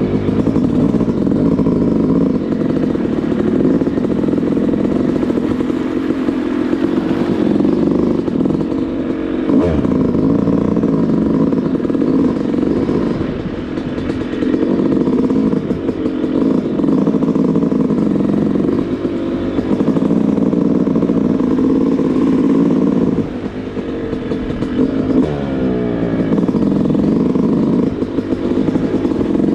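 Yamaha YZ250 single-cylinder two-stroke dirtbike engine running under riding load, its revs rising and falling again and again as the throttle is worked, with a brief drop in revs about two thirds of the way through.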